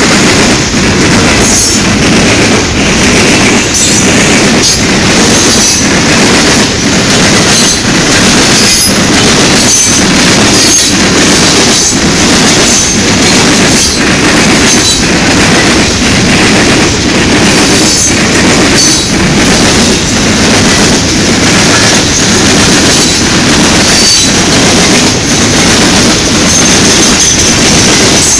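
CSX coke train's open hopper cars rolling past close by: a steady rumble of steel wheels on rail, with regular clacks about once a second as the wheels cross rail joints and brief high wheel squeals here and there.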